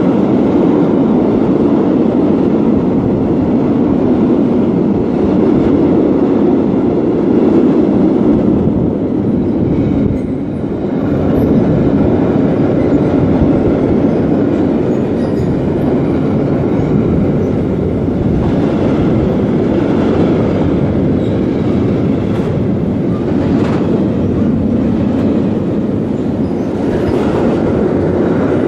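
Freight train wagons rolling past close by at speed: a loud, steady rumble of steel wheels on rail, with a few sharp knocks near the end.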